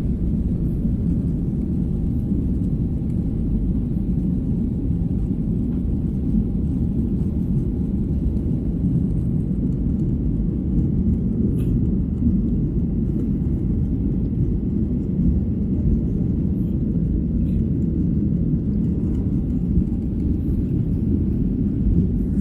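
Airliner cabin noise during takeoff: a steady low rumble of the jet engines and airframe that stays even in level throughout.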